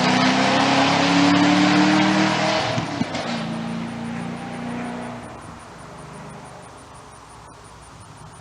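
Modified Pontiac GTO V8 with Trick Flow heads and a Borla exhaust accelerating hard, its pitch rising, then dropping sharply about three seconds in as it shifts. It pulls on briefly and then fades away into the distance.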